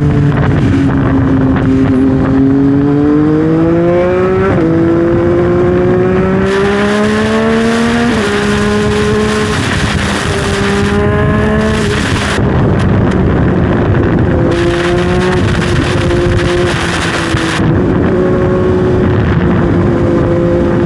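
A 2021 Yamaha MT-09's 890 cc inline-three engine running through a full Dominator aftermarket exhaust. It accelerates, rising in pitch, with gear changes about four and eight seconds in, then cruises at a fairly steady speed. A rushing hiss comes and goes in the middle.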